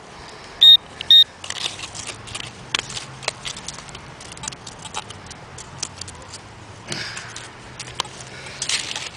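Metal detector beeping twice in quick succession on a target, then digging in gravel and mud, with scattered clinks and scrapes of stones.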